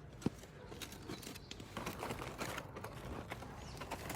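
Aluminium foil crinkling as a cooked foil pack is handled, with one sharp knock just after the start.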